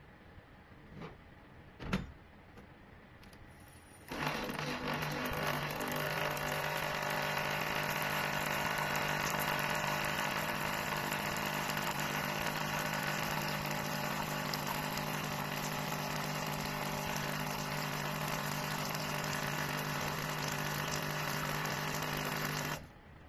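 Two clicks, then an espresso machine running steadily with a buzzing hum for about nineteen seconds after being switched on, starting abruptly about four seconds in and cutting off suddenly near the end.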